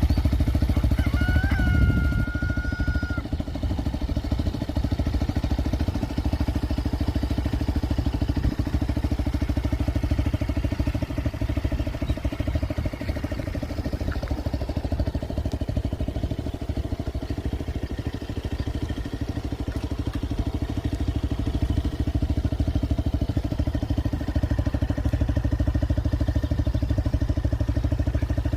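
Motorcycle engine running steadily while riding, its firing pulses dense and even throughout. A short high tone sounds briefly about a second in.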